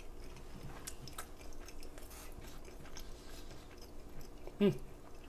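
A person chewing a mouthful of Mexican rice: quiet, soft mouth sounds with faint scattered clicks. There is a short voiced sound, like a brief hum, about four and a half seconds in.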